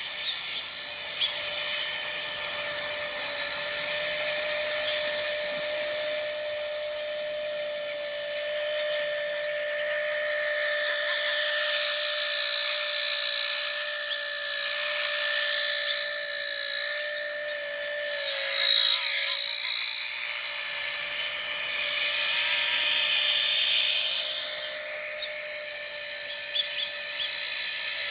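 Blade Nano S3 micro RC helicopter in flight: the high-pitched whine of its small electric motors and rotor blades, steady with small shifts in pitch as it holds and maneuvers, briefly swelling and dipping in pitch about two-thirds of the way through.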